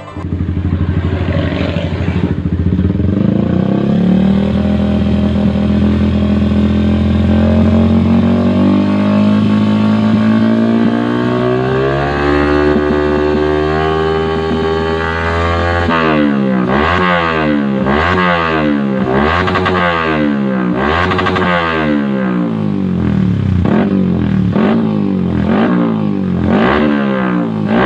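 Yamaha R15 V3's single-cylinder engine through a WRX 3Oval K2 stainless-steel aftermarket exhaust. It holds a steady low speed with the revs creeping slowly higher for about fifteen seconds. Then it is blipped over and over, about one quick rev-and-drop a second.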